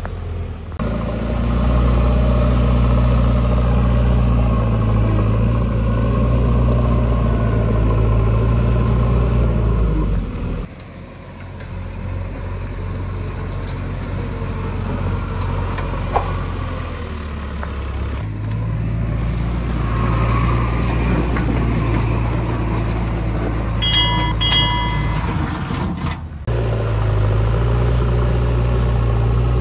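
JCB backhoe loader's diesel engine running under work, a steady low note that changes abruptly several times. A brief high-pitched squeal sounds about three-quarters of the way through.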